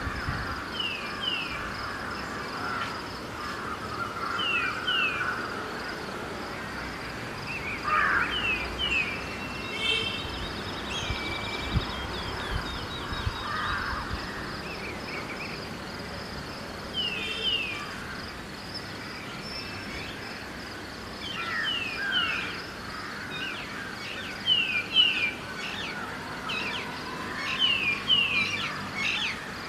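Small birds chirping at dawn, short falling notes often in quick pairs, more frequent near the end, over a steady background hum of a city waking up with distant traffic and people.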